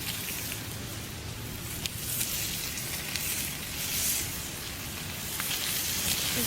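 Food sizzling on a grill over a wood fire in a stone fire pit: a steady hiss with scattered sharp crackles.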